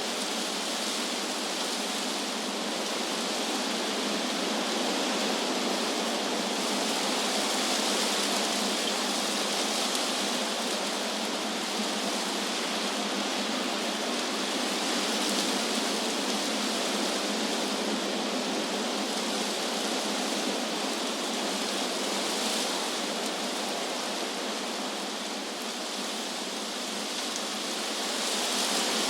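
Wind blowing through trees, leaves rustling in a steady rushing noise that swells and eases gently.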